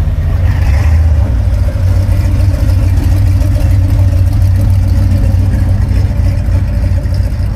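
A vehicle engine running steadily with a loud, deep low rumble.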